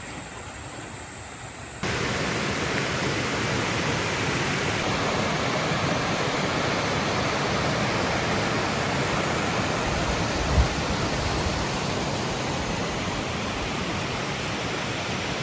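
Steady rush of flowing water, like a stream or small waterfall, that suddenly gets louder about two seconds in. A single brief low thump comes about two-thirds of the way through.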